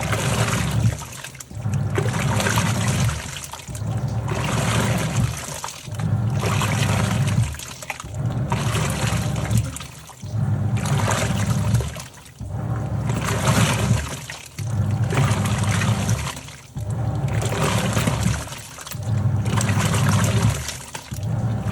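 Top-loading washing machine agitating a load: the motor hums as the pulsator churns the water one way, pauses briefly and reverses, in a steady rhythm of a surge about every two seconds.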